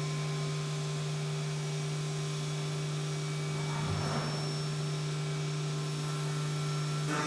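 Haas UMC 750 five-axis CNC mill running a 1/4-inch end mill through a parting-off cut, a steady humming tone from the spindle, with a brief rasping swell of cutting about four seconds in.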